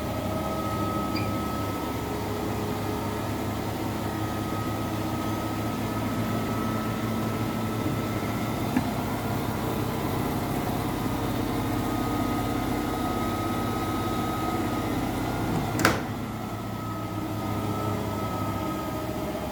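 Washing machine running through a wash cycle with a load of blankets: a steady motor and drum hum with a faint whine, and one sharp click about 16 seconds in.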